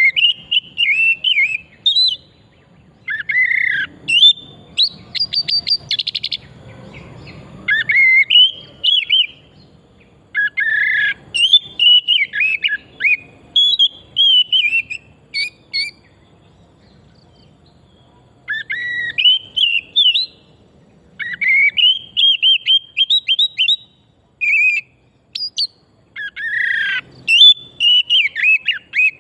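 Oriental magpie-robin (kacer) singing loudly in phrase after phrase of varied sweeping whistles and rapid trills, with short pauses between phrases and one longer pause past the middle.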